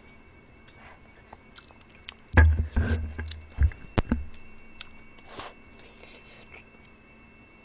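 Close-miked chewing and biting on spicy braised chicken feet, with small wet mouth clicks. A cluster of louder low thuds comes a little past the middle.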